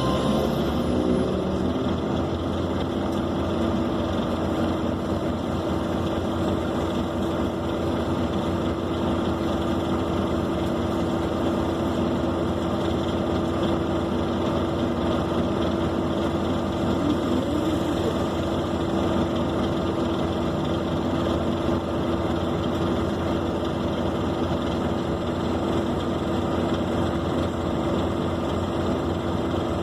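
Scania K270 city bus running along, heard from inside the passenger cabin: a steady diesel engine drone and road noise, with a constant hum over it.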